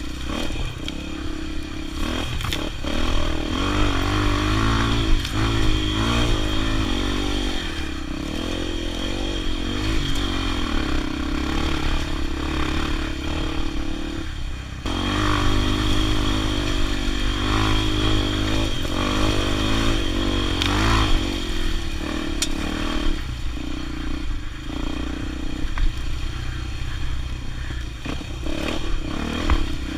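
Motorcycle engine running under way, the revs rising and falling, with a brief drop in engine sound about halfway through before it picks up again.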